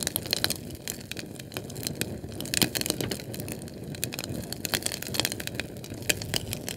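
Fire crackling: irregular sharp snaps and pops, several a second, over a low steady rumble of burning.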